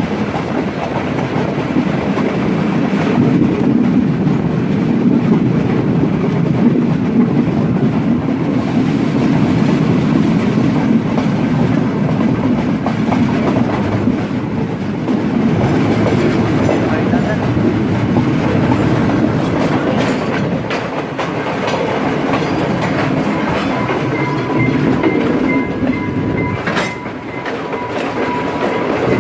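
Udaya Devi express train running steadily along the line, its wheels clattering over the rail joints. A faint thin steady tone joins in near the end.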